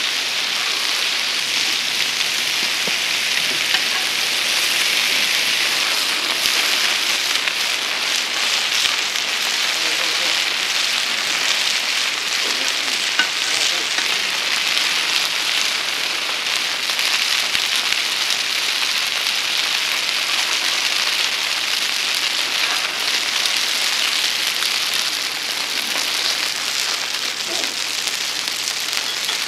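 Pan-fried buns (shuijianbao) sizzling in oil in a wide round pan, a steady loud hiss.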